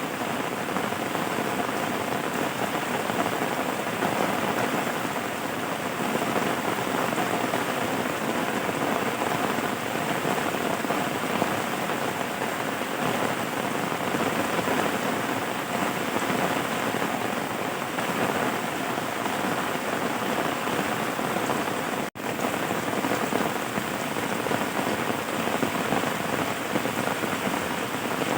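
Steady rain falling on a surface, an even dense patter at constant strength. It cuts out for an instant about three-quarters of the way through, then carries on unchanged.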